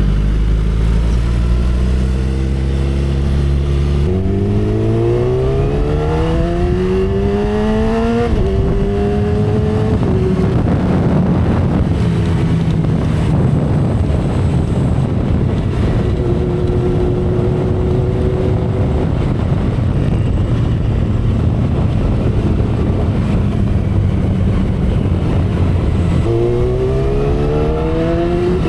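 2012 Kawasaki Ninja ZX-10R's inline-four engine accelerating: its pitch climbs steadily from a few seconds in, drops at a gear change, then settles into a cruise under heavy wind noise. Near the end it climbs again.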